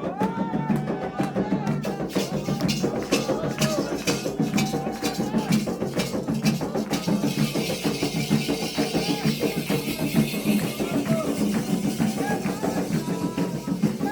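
Candomblé ritual music: drums beating fast and steadily under voices singing, with a rattle or shaker coming in more strongly about seven seconds in.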